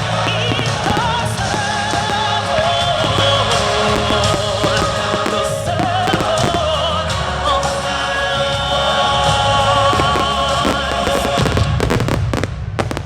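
Fireworks banging over loud music with long held sung notes; near the end the music stops and a quick cluster of firework bangs follows.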